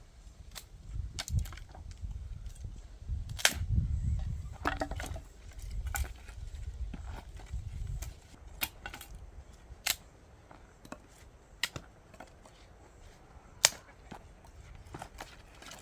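Firewood giving irregular sharp cracks and snaps every second or two, the loudest about three and a half seconds in and again near the end, over a low rumble.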